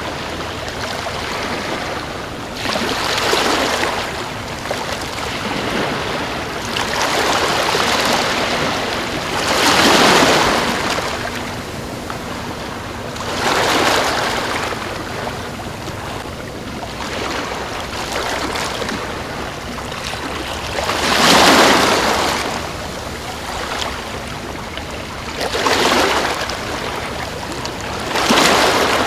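Sea waves breaking and washing ashore: a steady rushing wash with about seven louder surges that swell and fade every few seconds at uneven intervals.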